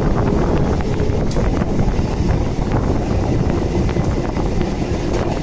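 Wind buffeting the microphone at the open door of a moving Kolkata suburban electric local train, over the steady rumble of the running train with faint scattered clatter from the wheels and carriage.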